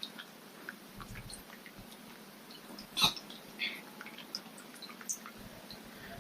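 Goldfish smacking its mouth at the water surface while feeding: irregular small wet clicks and pops, with one louder smack about halfway through.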